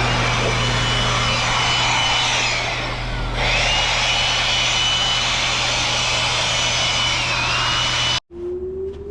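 A loud motor-driven machine running steadily, with a low hum and a high whine that slides down and recovers about three seconds in; it cuts off abruptly near the end.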